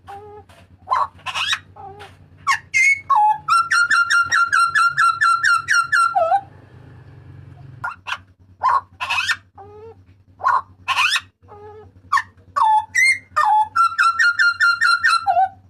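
Butcherbird ('jagal papua') giving loud, shrill calls: a string of sharp, separate notes, broken twice by a fast run of about a dozen repeated notes that ends in a down-slurred note.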